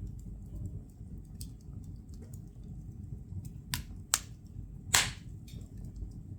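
Firewood burning in a fireplace: a low, steady rumble of flame with scattered small crackles, then three sharp pops in the second half, the loudest near the end.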